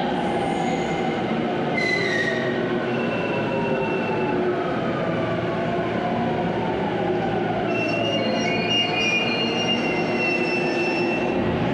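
Electric train running, with steady rolling noise, wheel squeal and thin whining tones that slowly fall in pitch, as when the train is slowing down.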